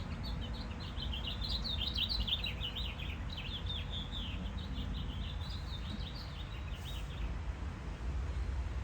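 Small birds twittering in a busy run of rapid high chirps that stops about seven seconds in, over a steady low rumble.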